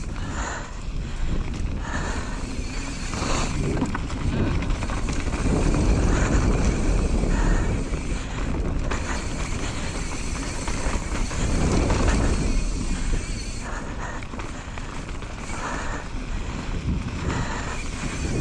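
Mountain bike ridden along a dirt trail: wind buffeting the rider-mounted camera's microphone in a low rumble that swells and eases, with tyre noise and the bike rattling over bumps.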